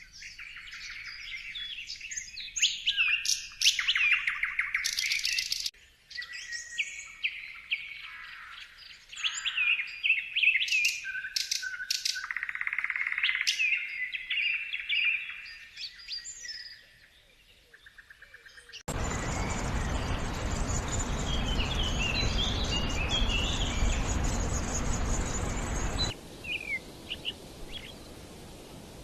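Songbirds singing and chirping in quick, high phrases, changing abruptly several times from one bird to another. From about two-thirds of the way in, a loud, steady rushing noise covers the birds for several seconds, leaving their calls faint, before quieter chirping returns near the end.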